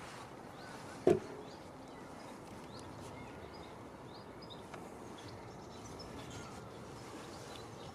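Steady outdoor background noise with small birds chirping, and one short loud knock about a second in.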